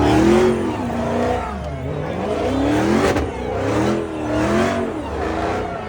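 Several car engines revving up and down over a steady low idle, their pitches rising and falling every second or so and overlapping.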